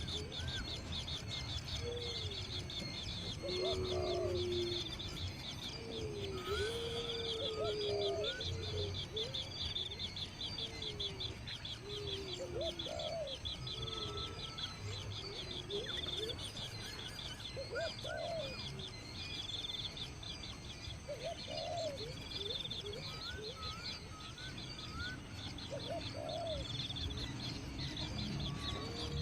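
Birds chirping and calling: a fast, continuous high-pitched chirping, with shorter notes and lower, drawn-out calls every second or two.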